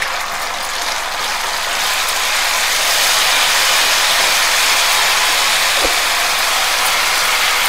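Manchurian sauce base of onion, garlic, ginger, chilli, soy and chilli sauces sizzling steadily in hot oil in a stainless steel frying pan as a wooden spatula stirs it. The sizzle grows louder about two seconds in.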